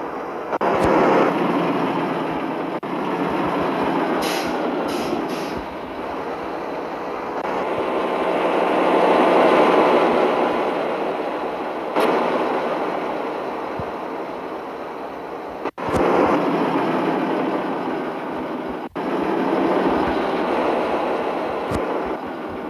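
Mitsubishi Fuso truck with an empty cargo bed on the move, a steady noisy rumble that swells and fades, with a few abrupt breaks.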